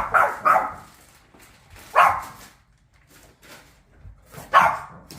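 Boston terrier barking: a quick run of three barks at the start, a single bark about two seconds in, and another near the end.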